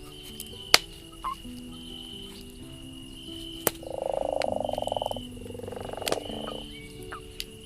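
Campfire crackling with occasional sharp pops, over slow, soft music notes. About four seconds in, a loud fast-pulsing croaking trill sounds for roughly two and a half seconds in two parts, while a short high chirp repeats about once a second.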